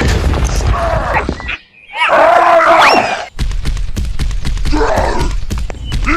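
Voice-like groans and cries over a steady low rumble. The sound cuts out briefly about one and a half seconds in, then a loud wavering cry follows.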